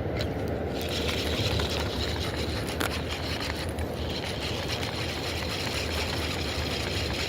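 A fishing reel being cranked to bring the line in, a fine rapid whirring tick starting about a second in and pausing briefly partway through, over the steady low rush of the river.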